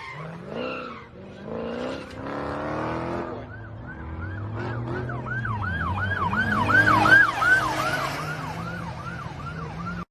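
Emergency vehicle siren sounding a fast yelp, about three rises and falls a second. It starts a few seconds in, grows louder to a peak a little past the middle, then eases off slightly.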